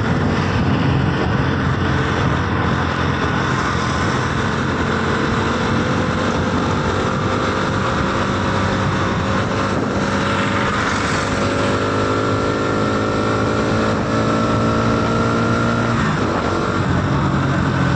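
Motorcycle engine pulling at high road speed under heavy wind rush. The engine pitch climbs slowly for several seconds, then drops suddenly about sixteen seconds in.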